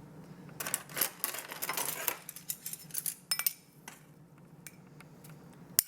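Kitchen utensils clinking and scraping against dishes, a cluster of short clicks and rustling for the first two seconds, a few more about three seconds in, and one sharp click near the end.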